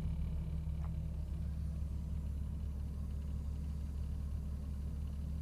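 Ford XR6 Turbo's turbocharged inline-six idling steadily on E85 shortly after a cold start. It runs smoothly with no surging, a sign that the engine is running cleanly on the E85 tune while still cold.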